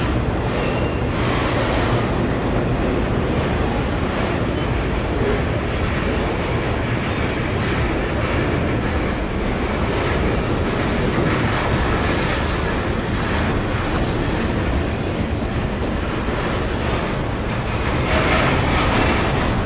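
Intermodal freight cars rolling past: a steady rumble of steel wheels on rail with a clickety-clack, growing briefly louder near the end.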